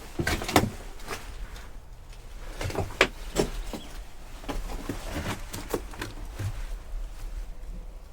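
Irregular cracks, knocks and rustles of someone moving through forest undergrowth, the loudest about half a second and three seconds in.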